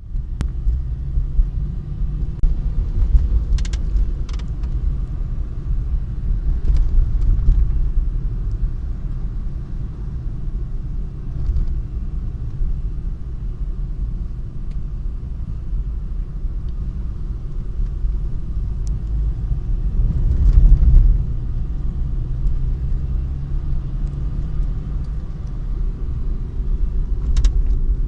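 Steady low rumble of a car, with a few sharp clicks or knocks scattered through it and a brief louder swell about two-thirds of the way in.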